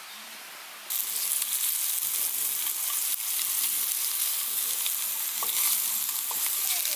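Slices of Spam sizzling as they fry in a small stainless frying pan over a camping gas stove, with a few clicks and scrapes as they are turned with a metal utensil. The sizzle starts suddenly about a second in.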